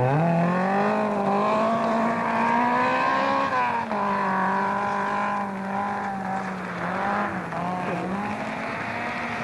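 Rally car engine revving hard under acceleration. The revs climb steeply at the start, then stay high, dropping briefly twice at gear changes.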